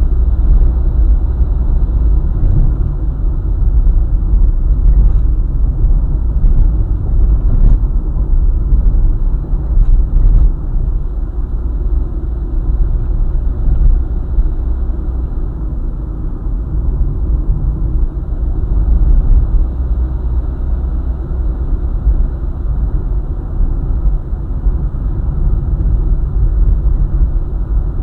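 Car driving along a highway: a steady low rumble of road and engine noise, with a few faint clicks around a third of the way in.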